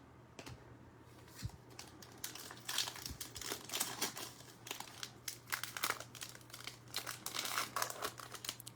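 Plastic wrapper of a Select football card pack crinkling and tearing as it is ripped open and handled. There is a dense run of irregular crackles starting about two seconds in.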